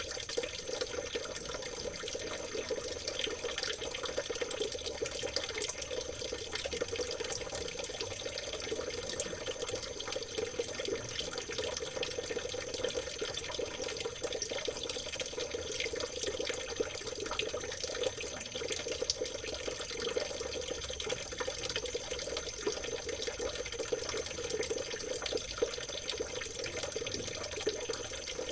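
Water trickling and babbling in a small stream, a steady unbroken rush with fine splashing throughout.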